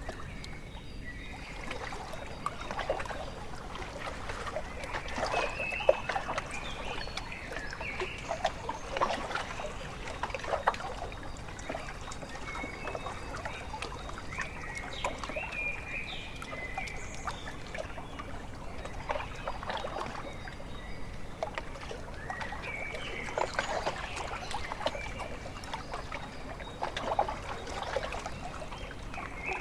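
Small waves lapping and splashing irregularly at a lakeshore, with birds calling in short clusters of high chirps several times.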